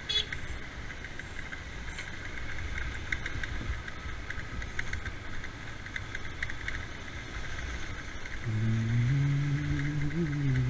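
Two-wheeler engine running with road and wind noise while riding, with a light ticking rattle throughout. For the last couple of seconds a loud, held, pitched tone sounds over it, stepping slightly in pitch.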